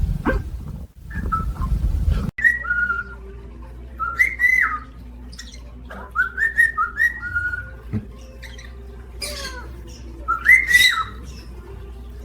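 Pet parrot giving a series of short whistled calls, each rising and falling in pitch, over a faint steady hum. These follow a loud low rumbling noise that cuts off abruptly about two seconds in.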